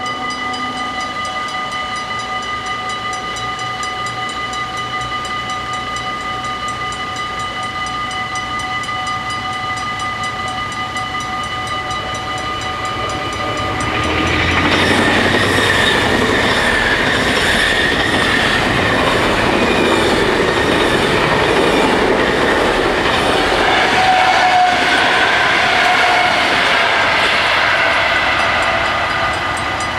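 Level-crossing warning bells ringing steadily. About 14 s in, an electric passenger train passes the crossing, its wheels clattering over the rails, loud for about fourteen seconds before fading near the end.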